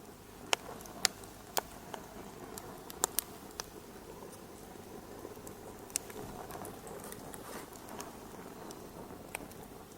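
Wood fire crackling in a fireplace: sharp, irregular pops over a steady low rush of burning. The pops come in a cluster through the first few seconds, with another about six seconds in.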